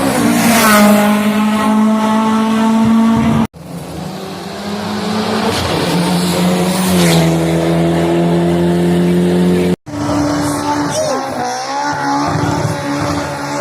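Rally cars running flat out at high revs, in three short clips joined by abrupt cuts. The engine pitch drops as a car passes, about half a second in and again about seven seconds in.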